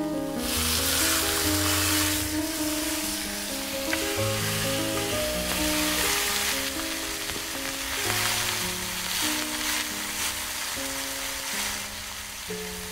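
Food sizzling as it fries in a small hot pan of a miniature kitchen set, a steady hiss that starts suddenly.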